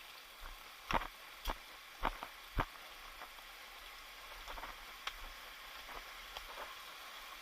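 Footsteps on a rocky trail, four sharp steps about half a second apart in the first few seconds and then fainter ones, over a steady hiss.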